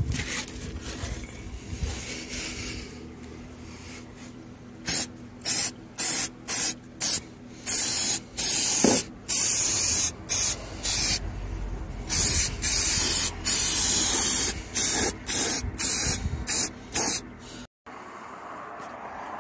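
Aerosol can of brake cleaner spraying in a series of about fifteen bursts, some short and some held for a second or more, to degrease the bare metal.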